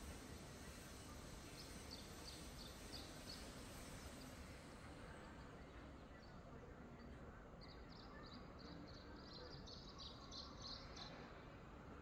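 Quiet outdoor ambience with a small bird's short, high chirps: a quick run of about six near two seconds in, then a longer, faster run from about eight to eleven seconds in.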